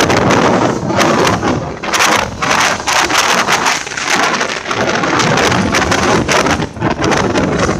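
Strong wind buffeting the microphone in the open vestibule of a moving passenger train, with the train's running noise underneath; the level rises and dips in gusts.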